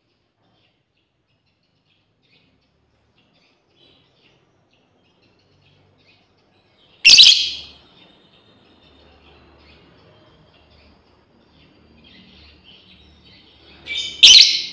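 Female lovebird calling to its companions: one loud, shrill call about halfway through and two more in quick succession near the end, with faint chirping in between.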